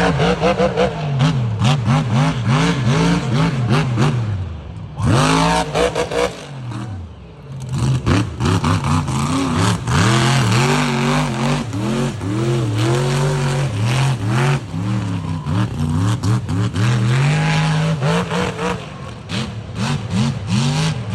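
Mega truck's big engine revving hard in quick, repeated bursts, its pitch swinging up and down again and again, with a short drop around the middle before it winds back up.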